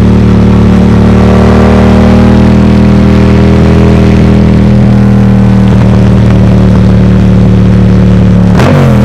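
Yamaha MT-07's parallel-twin engine running through a Mivv Delta Race full exhaust, held at steady revs; its note dips briefly and comes back near the end.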